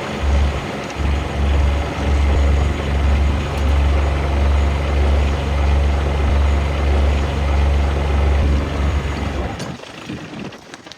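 Strong wind buffeting the microphone: a loud, steady low rumble with a hiss on top that drops away suddenly near the end.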